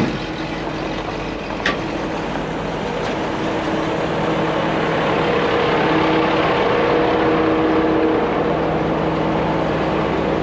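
A heavy truck engine running steadily, swelling a little louder about halfway through, with a brief click a couple of seconds in.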